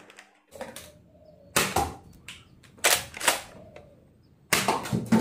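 Nerf Elite 2.0 dart blaster being primed and fired: a series of sharp plastic clacks and pops about a second apart, ending in a longer rattling cluster near the end.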